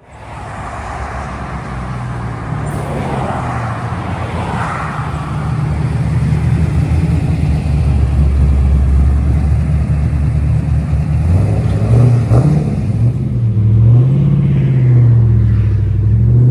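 Cammed LS1 V8 of a Trans Am WS6, with a BTR Stage 3 cam, longtube headers and cat-less true dual exhaust, running with a choppy low exhaust note that grows louder over several seconds. Its pitch starts to climb near the end as it accelerates.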